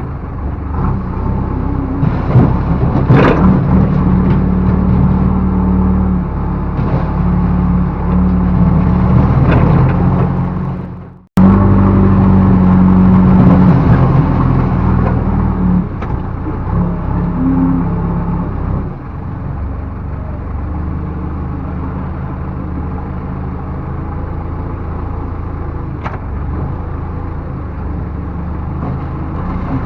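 Backhoe loader's diesel engine working under load, its note swelling and easing with the work, with a few metallic clanks. The sound drops out suddenly for a moment a little over a third of the way through, then settles to steadier, quieter running for the last third.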